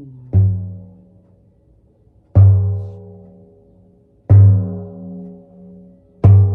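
Skin-headed shamanic frame drum struck slowly, four single beats about two seconds apart. Each beat booms with a deep, pitched ring that fades away before the next.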